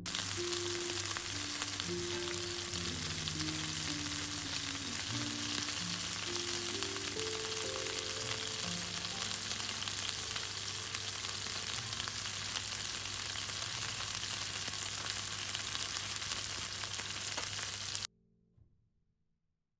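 Food frying in butter and oil in a pan, a steady sizzle that cuts off suddenly near the end, with background music underneath.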